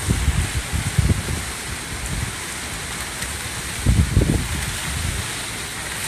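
Hurricane wind and driving rain: a steady hiss of rain, with gusts buffeting the microphone at the start, about a second in and again around four seconds in.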